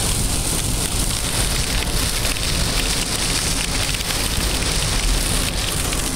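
Heavy storm rain beating on a moving car, heard from inside the cabin. It is a dense, steady hiss of drops over a low rumble.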